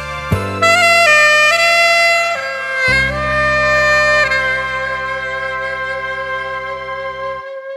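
Saxophone playing the last phrase of a slow Korean ballad over a backing track: a few note changes, then one long held final note. The backing's low notes stop just before the end while the saxophone note fades out.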